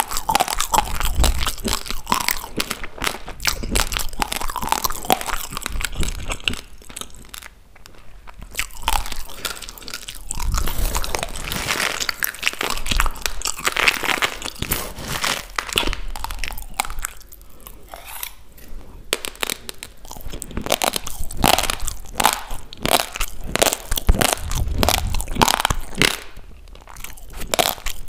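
Raw rice grains crunched and chewed close to a microphone: a dense run of dry, crackling bites that eases off briefly twice.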